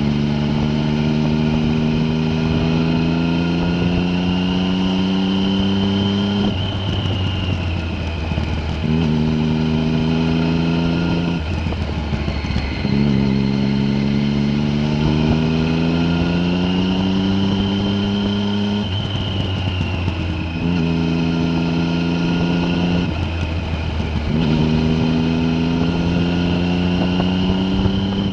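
A vehicle's engine pulling under load, its note climbing slowly, then breaking off and picking up again about four times as the throttle is eased or a gear is changed. A steady low drone runs beneath it.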